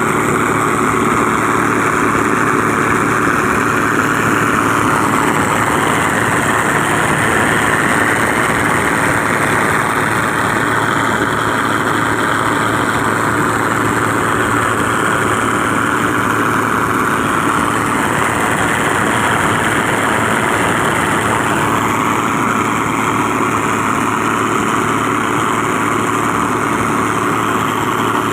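Motor boat engine running steadily, carrying a full load, as one continuous, even drone.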